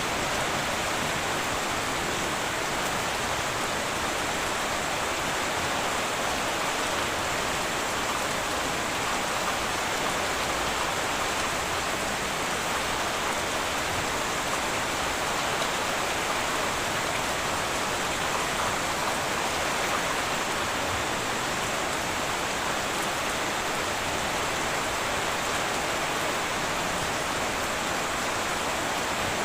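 Steady heavy rain falling on a tin roof, an even continuous hiss with no thunder.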